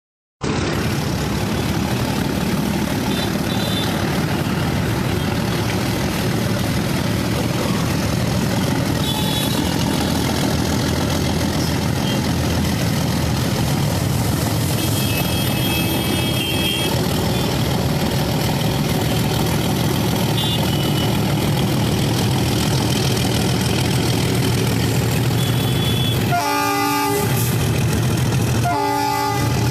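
WDS6 diesel shunting locomotive's engine running steadily and loud while shunting wagons. Near the end the locomotive's horn sounds twice, a longer blast followed by a short one.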